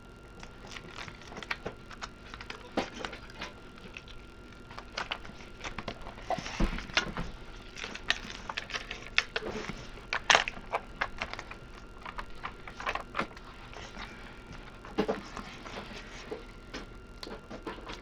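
A diamond-painting canvas and its plastic cover film being handled and smoothed flat on a desk: irregular crinkling and rustling with scattered clicks and taps, a few louder ones about six and ten seconds in.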